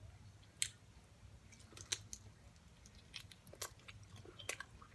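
Chewing food close to the microphone: a scattered run of faint, short clicks and mouth smacks.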